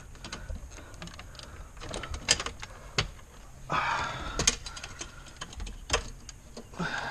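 Scattered plastic clicks and rattles of wiring harness connectors and dash trim being handled and unplugged behind a car's dashboard, with a short rustle about four seconds in.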